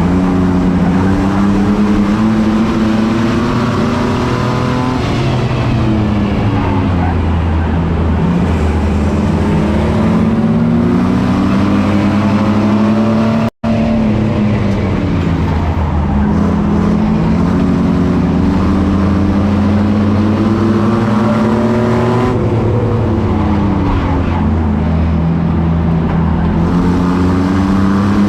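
Race truck engine running hard, its revs climbing and dropping again and again every few seconds as it accelerates and backs off around the track. The sound cuts out for an instant about halfway.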